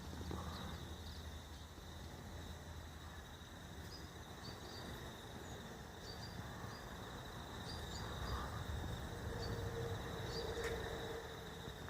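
Calm evening outdoor ambience: a steady high-pitched trill of crickets, with short bird chirps now and then over a low rumble. A faint steady hum comes in about nine seconds in and fades near the end.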